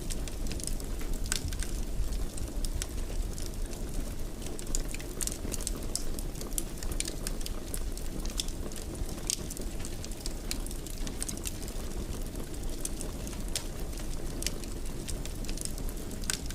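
Wood fire crackling in a fireplace: a steady low rumble of burning with irregular sharp pops and crackles scattered through it.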